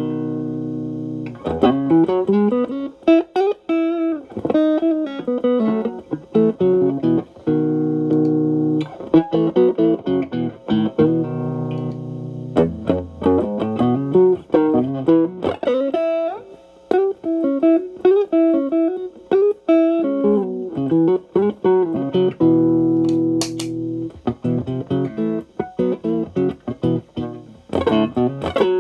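Stratocaster electric guitar played through a Xotic AC Plus overdrive with both channels stacked, Ch. A boosting Ch. B, into a Marshall Valvestate amp. It plays driven single-note lead runs with a few held chords, each ringing for a second or two.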